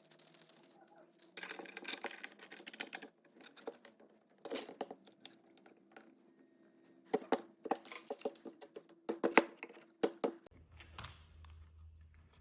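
Close handling noises of small tools and parts: irregular clusters of quick clicks, taps and short scrapes. A low steady hum comes in about ten and a half seconds in.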